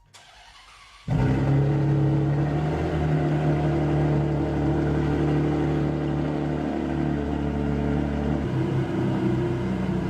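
Maserati MC12's V12 engine comes in suddenly about a second in, then runs loud and steady at a near-constant pitch.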